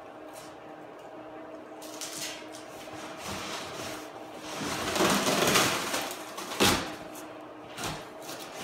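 A cardboard shipping box being handled and opened: scraping and rustling of cardboard that swells past the middle, then a sharp knock and a smaller one near the end.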